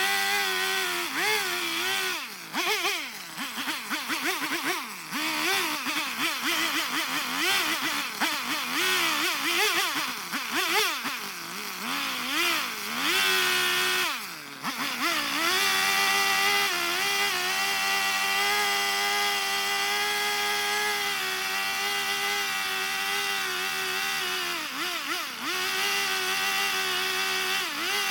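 Two-stroke chainsaw carving a block of eastern red cedar, revving up and down repeatedly for the first half. It drops briefly about halfway, then holds at a steady high speed to the end.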